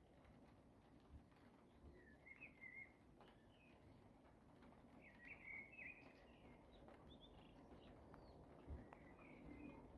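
Faint bird chirps: a few short twittering phrases, over a low steady background hiss.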